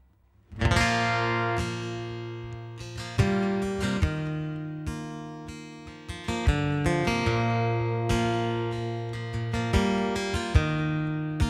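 Acoustic guitar strumming a slow instrumental introduction, with chords struck and left to ring, re-struck about every one to two seconds.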